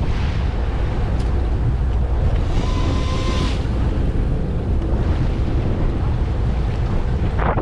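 Wind buffeting the microphone on a boat at sea: a steady, loud low rumble, with a brief steady high tone about three seconds in.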